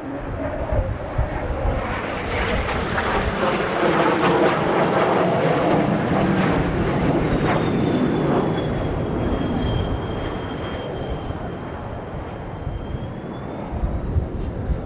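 Jet noise from a Blue Impulse Kawasaki T-4 passing overhead. It swells to its loudest about four to eight seconds in and then eases off, with a thin high turbine whine in the second half. Gusty wind buffets the microphone throughout.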